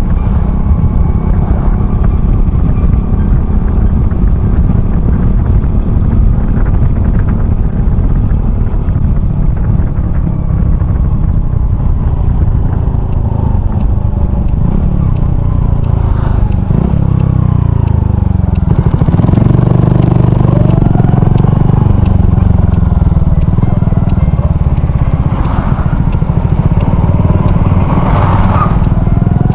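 Honda Cross Cub 110's small single-cylinder engine, breathing through an RPM Raptor aftermarket muffler, running on the move under a heavy wind rumble on the microphone. About halfway through, the engine note glides down and up again as the bike slows, shifts and picks up speed.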